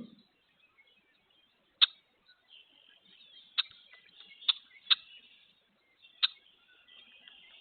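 Sharp taps of a woodpecker's bill striking at a suet and seed feeder, five in all at uneven spacing, over faint, continuous chatter of distant birds.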